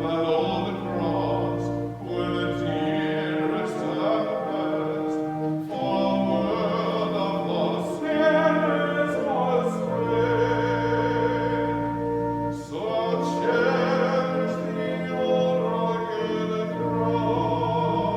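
A singer in a classical, operatic style with instrumental accompaniment, holding long sustained notes over steady low bass notes.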